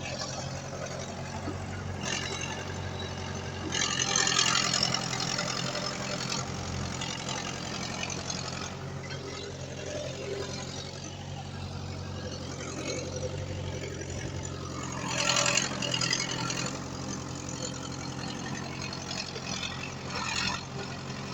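Heavy diesel earthmoving machinery running steadily, with louder noisy surges about four seconds in, about fifteen seconds in and near the end.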